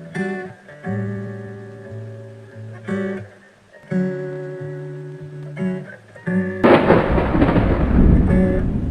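Slowed song intro of plucked guitar notes ringing over a low bass line. About two-thirds of the way through, a loud thunderclap with heavy rain crashes in and drowns out the guitar.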